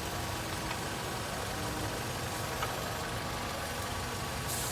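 Nissan Rogue engine idling steadily, a low even hum.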